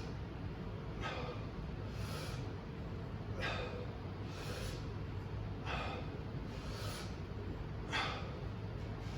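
Sledgehammer 360 swings: a short rush of sound comes about once a second, in time with each full circle of the hammer, over a steady low hum.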